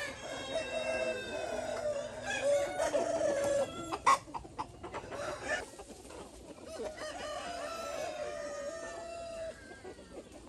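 Chickens calling, a rooster crowing among clucking hens, with long drawn-out calls at the start and again later. A sharp click about four seconds in.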